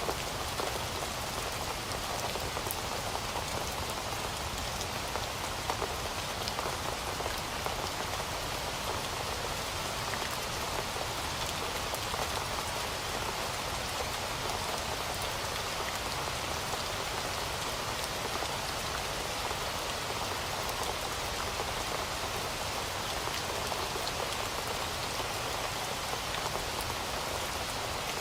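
Heavy rain falling steadily, a continuous even hiss with scattered sharper drop ticks.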